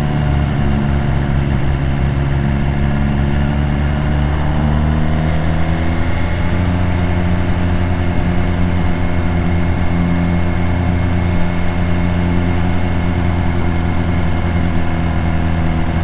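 BMW S1000R's inline-four engine, heard through an SC-Project exhaust, running at steady revs under way. The pitch climbs gently about a third of the way in, then holds.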